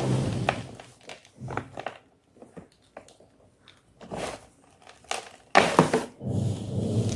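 White gym chalk crunching and crumbling in irregular sharp crackles, with a dense, loud crunch about five and a half seconds in. A steady low hum sits under the start and comes back near the end.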